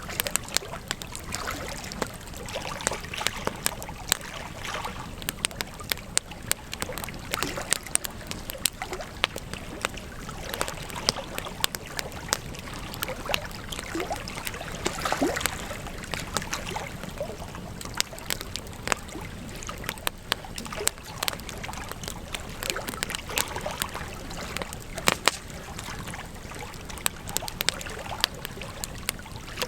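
Wood campfire crackling: frequent sharp, irregular pops and snaps over a steady hiss of burning.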